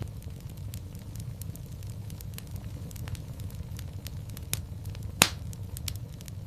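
Fireplace fire crackling: scattered small pops over a steady low rumble, with one loud sharp pop about five seconds in.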